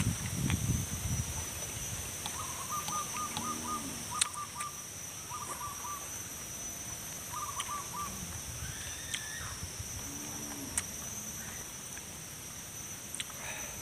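Chewing and crunching of a mouthful of raw vegetables during the first second or so. Then a bird calling in several short runs of quick notes, over a steady high-pitched insect drone, with scattered clicks.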